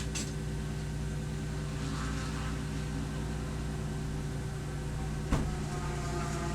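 Race car engine running at a steady pitch, with a single sharp knock about five seconds in.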